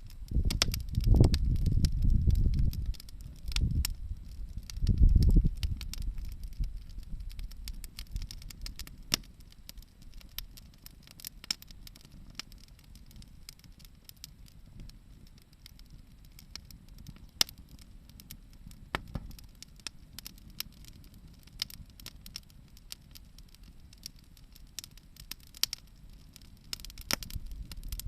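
Wood fire crackling, with sharp pops and snaps scattered throughout. Loud low rumbling bursts come and go during the first several seconds.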